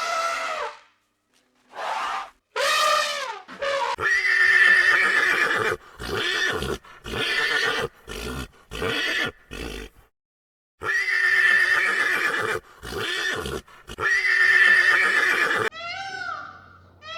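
An animal calling loudly again and again in long, wavering cries full of overtones, with shorter calls between them. Near the end a different, shorter rising-and-falling call begins.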